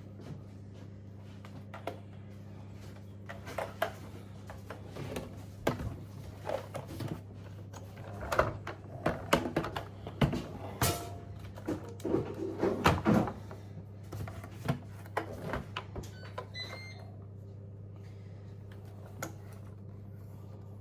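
Packaging and plastic parts of a new Shark vacuum cleaner being handled during unboxing: scattered knocks, clicks and rustles, busiest in the middle and thinning out near the end, over a steady low hum.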